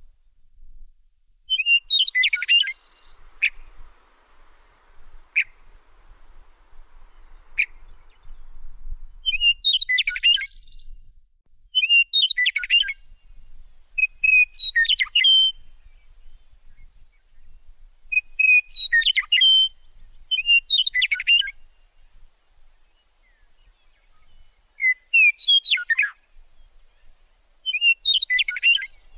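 A songbird singing short, quick, varied chirping phrases, about eight of them, repeated every two to four seconds.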